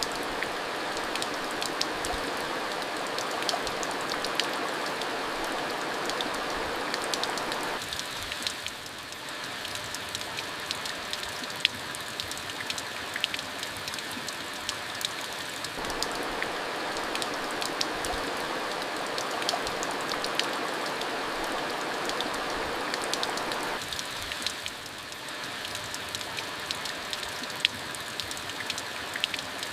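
Steady monsoon rain falling, a continuous rush with many individual drops ticking sharply on hard surfaces. The rush eases about eight seconds in, builds again about halfway through, and eases once more near the end.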